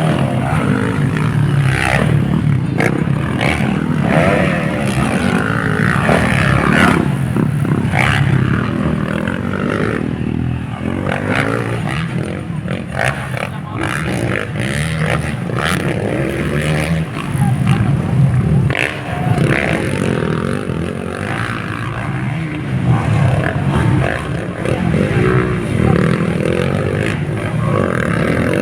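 Motocross motorcycles racing around the track, their engines revving up and down.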